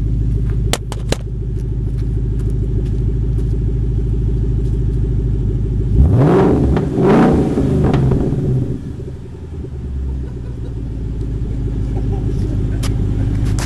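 2014 Mustang GT's 5.0 V8 running through a muffler-delete exhaust that still has its resonators and catalytic converters: a steady idle, one sharp rev about halfway through that climbs and falls back, and then idle again.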